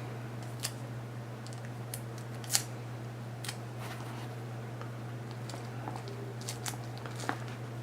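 Sparse small clicks and taps from hands working tape and a mask on a bench, over a steady low electrical hum.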